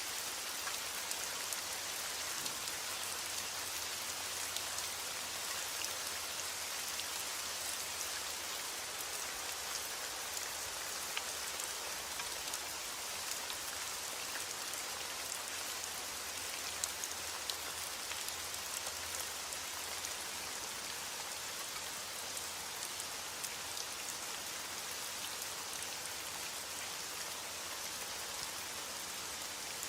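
Steady rain falling, a dense even hiss with scattered individual drops ticking through it.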